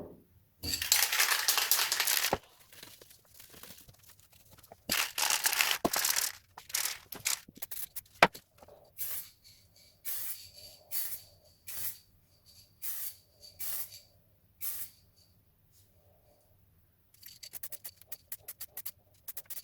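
Black spray paint hissing onto a 3D-printed PLA bust as a first sanding coat: two long passes of about a second and a half each, a sharp click about 8 seconds in, then a string of short bursts, with quick rapid bursts near the end.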